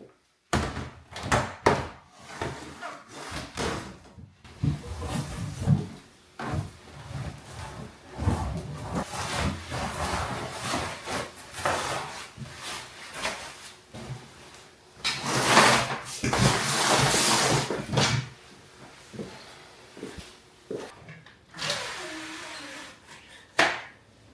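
Laundry being handled by hand: sharp knocks and clicks of a door or latch, and rustling of fabric, with a longer, louder spell of rustling a little past halfway.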